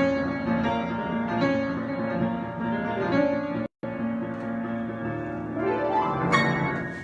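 Improvised piano playing: sustained notes and chords, cut by a sudden short dropout to silence a little past halfway. Near the end a rising run of notes climbs to a final chord that rings and fades away.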